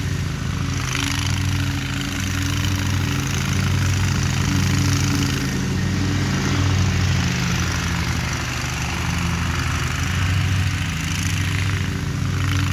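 Lawn mower engine running steadily, with its level swelling and easing a little.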